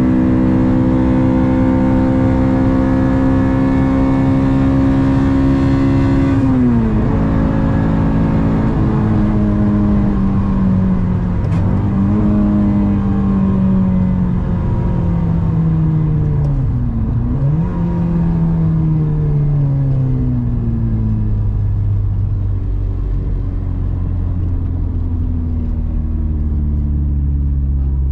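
Honda Civic Si engine running while driving: it holds steady revs for about six seconds, then the pitch falls, with three sharp dips and recoveries, and sinks steadily over the last ten seconds as the car slows.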